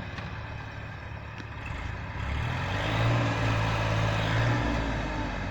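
Heavy diesel engine running, rising in load and loudness about two seconds in as it works harder, then easing slightly near the end.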